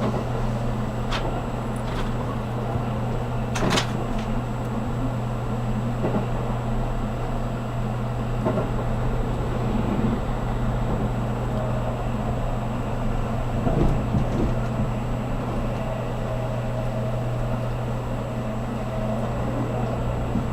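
Cabin running noise of a JR Kyushu 783 series limited express electric train under way: a steady rumble and low hum, with a few sharp clicks in the first few seconds.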